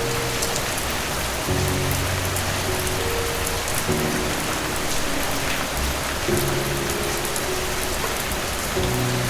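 Steady heavy rain pattering, with soft low music underneath whose notes change about every two and a half seconds.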